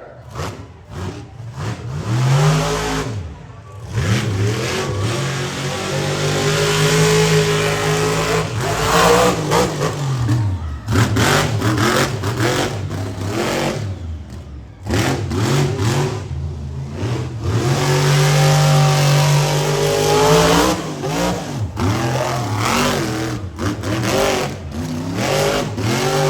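Monster truck's supercharged big-block V8 revving hard, its note climbing and falling repeatedly as the throttle is worked. It drops off briefly about three seconds in and again about fourteen seconds in.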